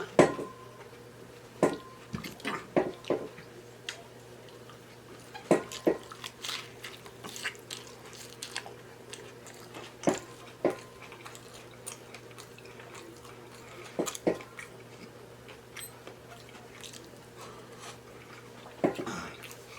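Close-miked eating of loaded tacos in nacho cheese shells: irregular bites, chewing and wet mouth smacks, with pauses between them, over a faint steady hum.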